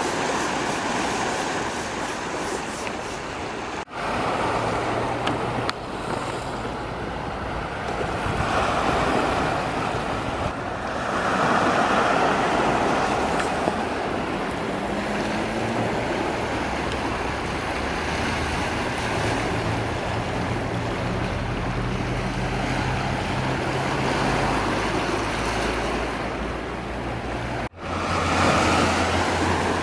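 Sea surf ambience: a steady rushing wash of waves with a low steady hum beneath. It drops out for a moment twice, about four seconds in and near the end.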